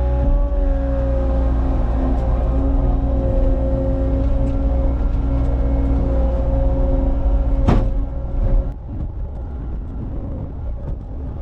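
Cat 279 compact track loader's diesel engine running hard with a steady whine over it. A sharp knock comes about three-quarters of the way through, and soon after the engine note drops and roughens.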